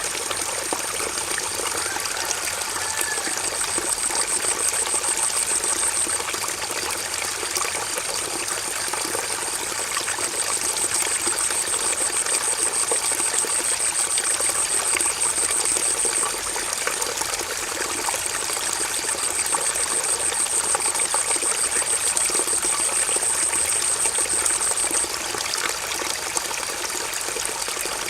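River water flowing and splashing steadily. Over it, a high, rapid trill comes in three long bouts of several seconds each, with a fainter high tone between them.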